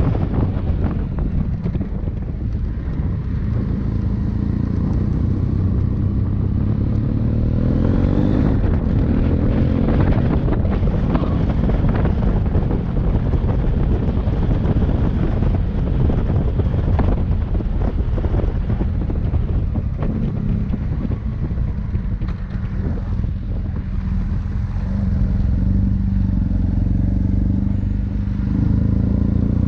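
Motorcycle engine running under way, its pitch rising and falling with the throttle, with wind rushing over the microphone.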